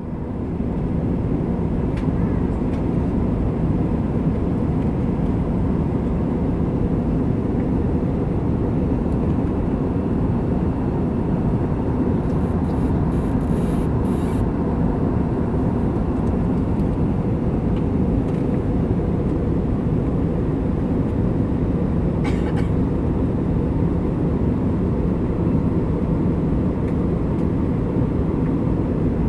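Steady roar of jet engines and rushing air heard inside an airliner cabin in flight, deep and unchanging, with a few faint ticks partway through.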